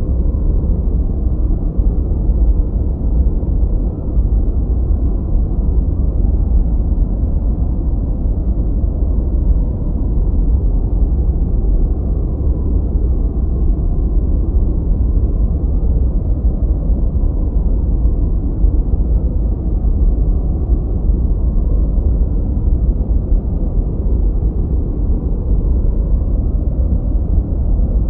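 Continuous generated noise, deep and rumbling, with no high hiss at all, steady and unchanging.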